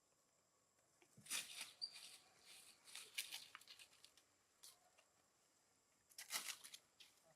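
Faint rustling and crackling in short scattered bursts: a cluster about a second in that trails off over the next two seconds, and another near the end, with a single brief high chirp in between.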